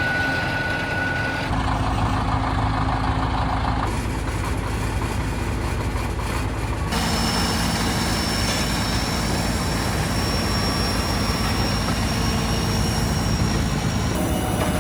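Heavy engine running steadily, with its sound changing abruptly a few times, as across cuts between clips.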